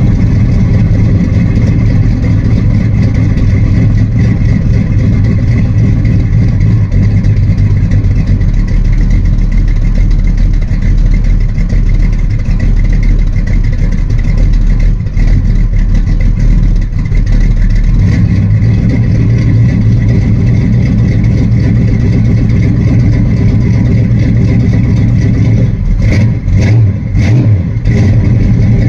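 1972 Dodge Charger's 383 cubic-inch big-block V8 running steadily after a cold start, with a change in its low note about two-thirds of the way through and a few brief dips near the end.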